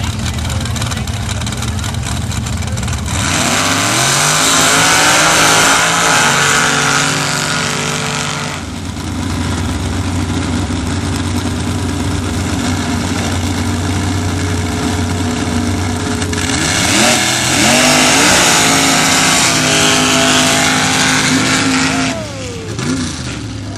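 Sand drag racing truck engines idling at the line, then running at full throttle about three seconds in, with the engine pitch climbing for several seconds. After a steadier stretch, a second full-throttle run starts about sixteen seconds in, and near the end the engines rev down with falling pitch.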